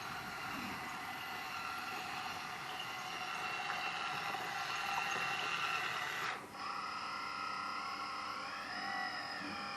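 Electric hydraulic pump and motors of a Kabolite RC construction model whining steadily. About six seconds in the whine drops out for an instant and comes back at a different pitch, with a tone that rises and falls near the end as the machine works.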